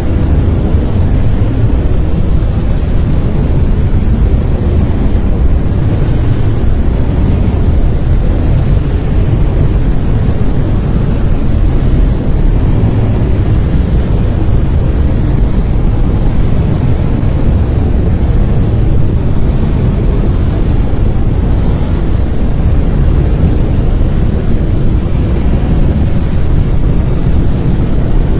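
Steady brown noise: a continuous, deep rumbling hiss, strongest in the bass, with no changes or events.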